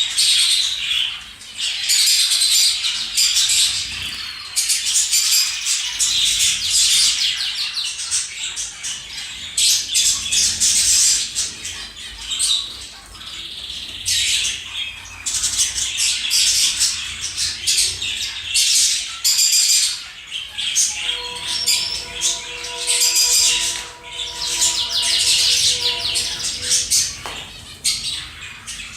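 A flock of small cage birds chirping and twittering all at once, a dense high-pitched chatter of overlapping calls. For several seconds near the end, a steady tone with overtones sounds beneath them.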